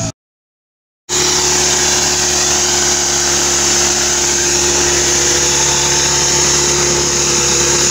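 After about a second of silence, a VW Beetle-bodied mud car's engine runs hard at steady high revs, its rear wheel spinning in deep mud.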